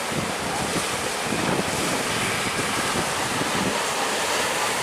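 Heavy ocean surf breaking and washing steadily, with wind buffeting the microphone.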